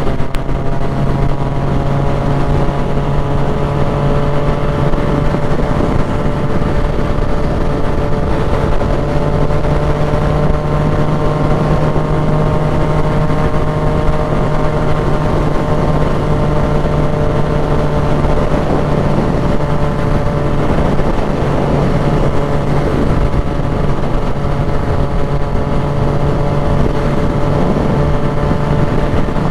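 Yamaha motorcycle engine running at a steady cruising speed, its note holding nearly the same pitch throughout, under a constant rush of wind and road noise.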